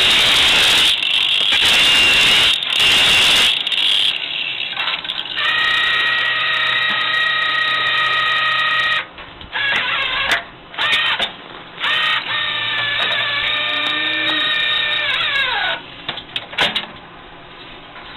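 Machinery noise: a loud hissing, grinding rush for the first few seconds, then a machine's motor whining at a steady pitch, broken by a few short gaps. About three-quarters of the way through, the whine drops in pitch as the motor winds down.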